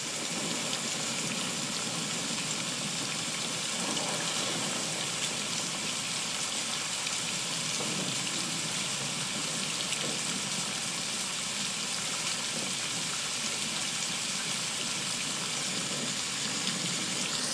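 Heavy rain falling steadily on conifer forest and a wooden deck: an even hiss that holds at the same level throughout.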